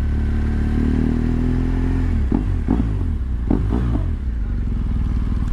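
BMW R1200GS boxer-twin engine running as the motorcycle rides along, steady for about two seconds and then dropping in pitch as the bike slows down.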